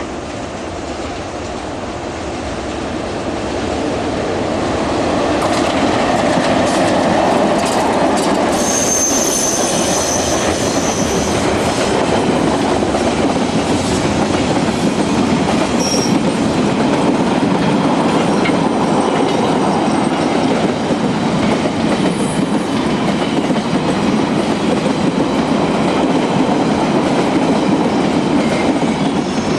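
Freight train rolling past, its wagons rumbling and clattering over the rails, growing louder over the first few seconds and then running steadily. A brief high-pitched squeal comes about nine seconds in.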